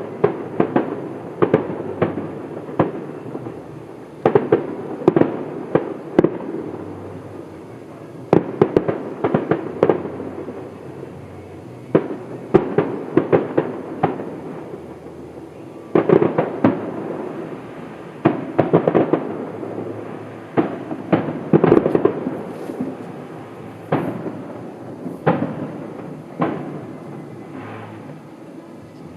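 Fireworks display: clusters of shell bursts every few seconds, each a run of sharp bangs trailing into crackle and rumbling echo.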